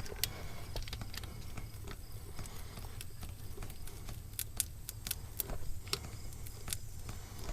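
Scattered light taps and scrapes of a hand tool pressing and rubbing a rubber patch down onto a tractor inner tube to work out air bubbles, with a few taps close together a little past halfway, over a low steady hum.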